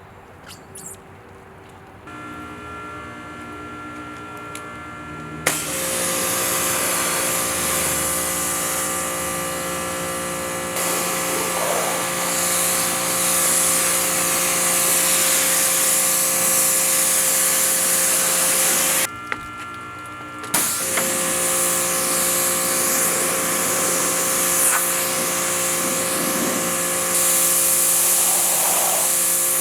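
A motor-driven power tool running with a steady whine. A loud rushing hiss kicks in about five seconds in, stops for a moment around two-thirds of the way through, then resumes.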